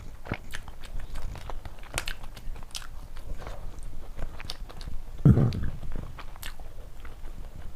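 Close-miked eating: chewing with scattered small crunches and wet mouth clicks. About five seconds in there is a single louder, deep thump.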